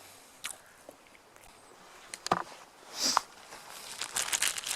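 A few scattered light knocks and rustles of handling, then crinkly plastic packaging being rustled and opened near the end.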